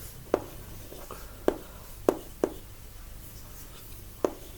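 Handwriting: a pen tapping and scratching on a writing surface, with about five sharp ticks spread irregularly across the few seconds.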